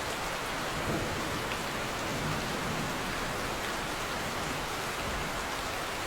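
Steady monsoon rain falling, an even hiss with no breaks.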